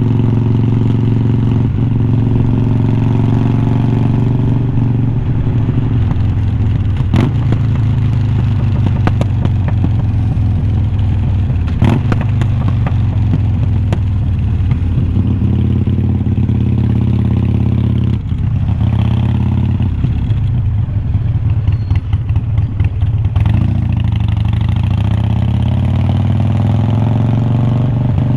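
Exhaust of a 2020 Harley-Davidson Iron 1200's air-cooled V-twin through unbranded glass-pack-style slip-on mufflers, running steadily while riding. The note drops off about two-thirds of the way through, then rises in pitch as the bike accelerates again near the end.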